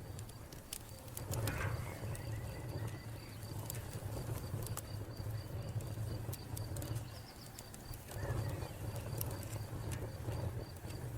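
Wood fire crackling with many sharp pops over a steady low rumble, while a cricket chirps in a fast, even pulse throughout. A bird calls briefly about a second and a half in and again near eight seconds.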